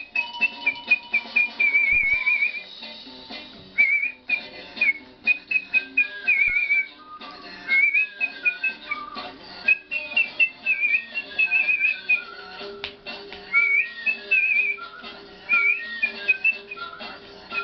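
A person whistling a tune in short phrases with quick trills, over a quieter musical accompaniment.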